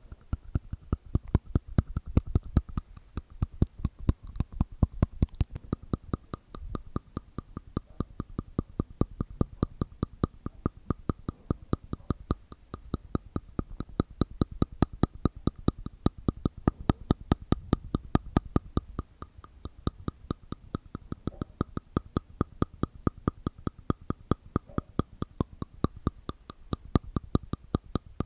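ASMR mouth sounds made inside the mouth with tongue and teeth: a steady run of sharp, wet clicks, about five a second.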